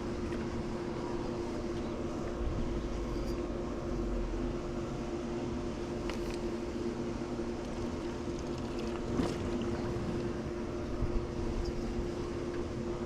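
Swimming pool pump motor running with a steady hum while the pool is vacuumed, with a few light clicks and a brief low rumble in the first half.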